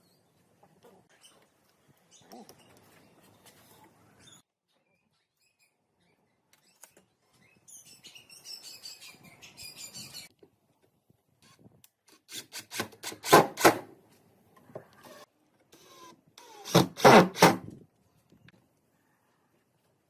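Hand work on wood: quiet rubbing and scraping, then two loud clusters of rapid clicks and knocks, the first about twelve seconds in and the second about seventeen seconds in.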